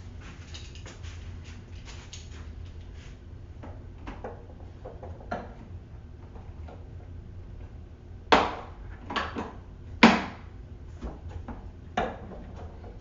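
Handling noise from a cordless wet/dry vacuum being assembled and moved about: light clicks and rustles, then three sharp knocks about eight, ten and twelve seconds in, with smaller knocks between.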